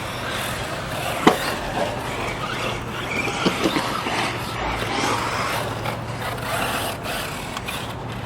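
Kyosho Inferno MP9 1/8-scale electric off-road buggy driving on a dirt track, making a steady rough running noise, with one sharp knock about a second in.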